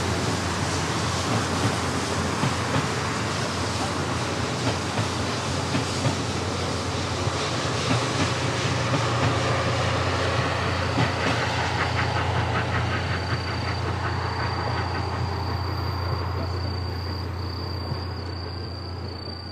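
Steam-hauled passenger train passing along the line: the coaches rumble steadily and click over the rail joints, fading away near the end. A thin, high, steady whine comes in about two-thirds of the way through.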